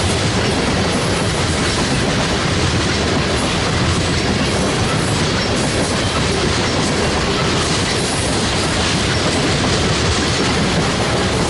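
Freight train cars rolling past at close range, the wheels clattering over the rail joints in a steady, loud run.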